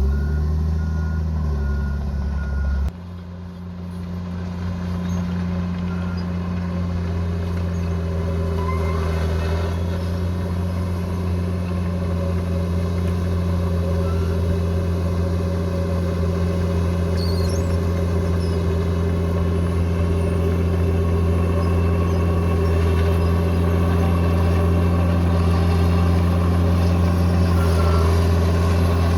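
Heavy diesel engine of an earthmoving machine running steadily under work. Near three seconds in, the sound cuts abruptly to a quieter engine note that then slowly grows louder.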